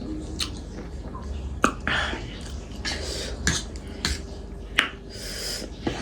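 Cutlery clicking against a plate or bowl while eating, about six sharp clinks spread over the few seconds, with softer eating noises between them.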